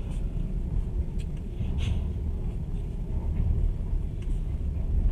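Passenger train running along the track, heard from inside the carriage: a steady low rumble of the wheels on the rails, with a few short clicks and rattles, the clearest about two seconds in.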